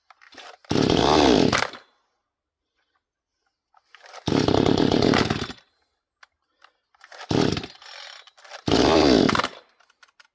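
Vevor 6220 two-stroke gas chainsaw engine running in four short bursts of about a second or less, cutting out to silence between each. The saw keeps dying as if starved of fuel, though its tank is half full.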